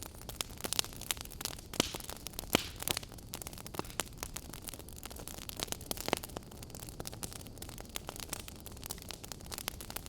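Fireplace fire crackling: irregular sharp pops and snaps over a soft steady hiss, with a few louder pops in the first three seconds and another about six seconds in.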